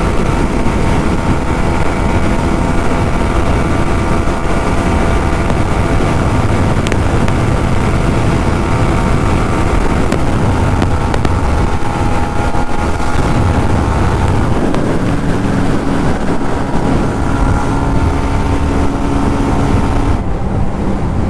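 Yamaha MT-15's 155 cc single-cylinder engine running steadily at high revs in sixth gear at its top speed, no longer gaining speed, under heavy wind rush on the helmet microphone. About 15 s in the engine note settles slightly lower, and near the end the high hiss falls away.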